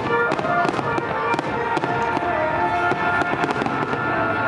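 Fireworks bursting and crackling in rapid pops, with music playing throughout.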